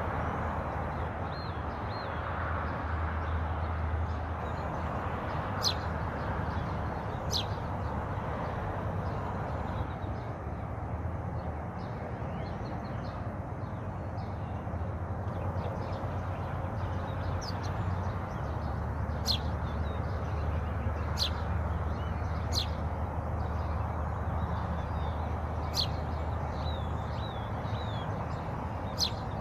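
Small birds giving sharp, high, downward-slurred chirps every few seconds, with fainter twittering in between, over a steady rush of falling water.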